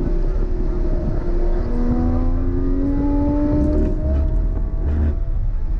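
Porsche sports car's engine running hard on track as the car slows for a corner, its pitch shifting. Low thumps about four and five seconds in come from the tyres running over the kerbing.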